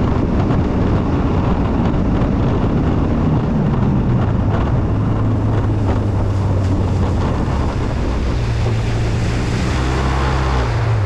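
Jet ski engine running under way, with wind buffeting the microphone and water rushing past the hull. A steady low engine drone comes through more clearly a few seconds in.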